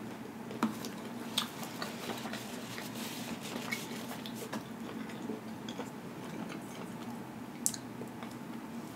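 Close-up chewing of pizza with the mouth closed: soft, wet mouth clicks and smacks scattered throughout over a steady low hum, with one sharper click near the end.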